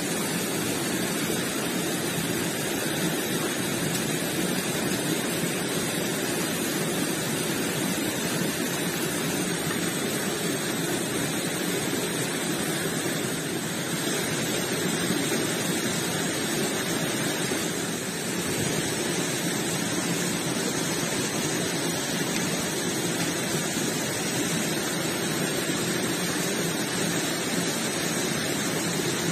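Creek water rushing and splashing steadily.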